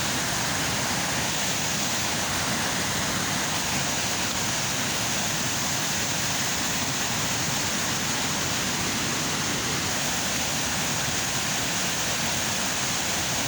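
River water rushing, a steady unbroken noise of flowing water.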